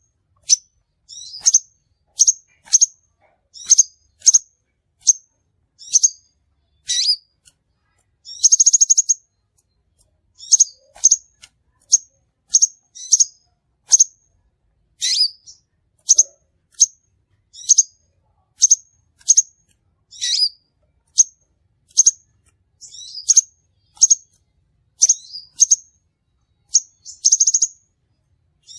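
Crimson sunbird calls: short, high, sharp chirps repeating about once or twice a second, with a brief buzzy trill twice, as played on a lure call track.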